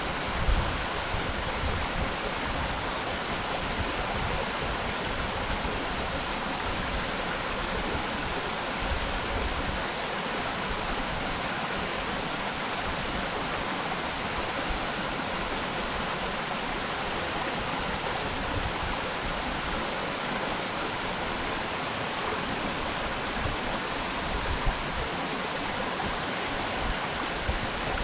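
A waterfall pouring steadily: an even, unbroken rush of falling water with occasional low thumps.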